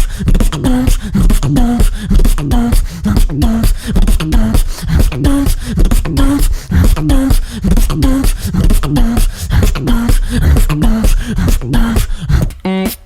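A beatboxer performing a continuous beatbox groove: fast, even mouth-made clicks and kick and snare hits under a short, repeating pitched bass-voice note. Near the end it changes to a rapidly pulsing, buzzing vocal tone.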